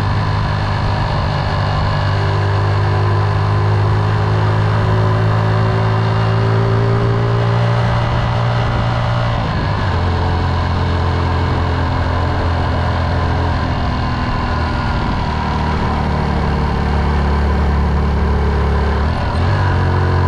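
Motorcycle engine running steadily on the move, its pitch stepping down about halfway through and stepping back up near the end.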